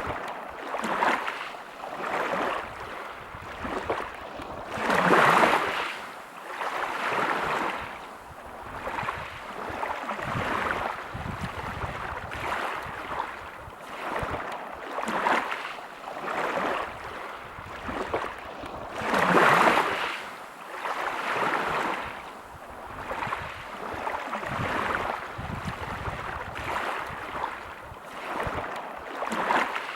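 Waves breaking on a pebble beach. They surge and draw back in repeated swells every second or two, with two bigger breakers, one about five seconds in and one near twenty seconds in.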